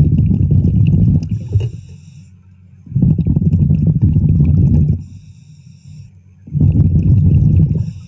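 A diver breathing underwater through a regulator. Three loud, low bubbling rumbles of exhaled air come about every three seconds, with a thin high hiss of inhaling between them.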